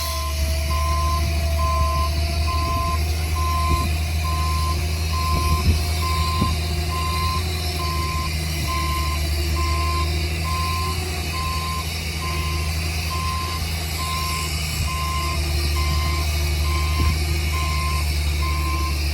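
Reversing alarm of a heavy construction vehicle beeping at about one beep a second, over the steady low rumble of its diesel engine as it backs up.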